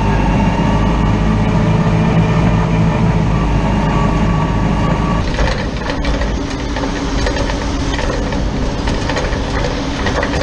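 Heavy farm machinery at silage work, a large engine running steadily. About five seconds in the sound changes to a noisier running with a rattling clatter of knocks.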